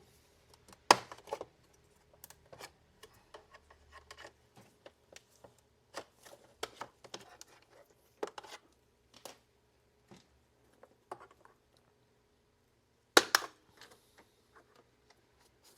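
Scattered clicks and knocks of plastic parts and tools as a robot vacuum's housing is unclipped and handled on a workbench, with sharper snaps about a second in and near the end.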